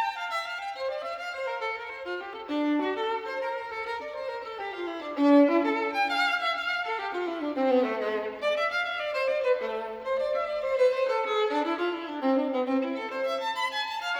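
Violin music: a single melodic line of notes running up and down.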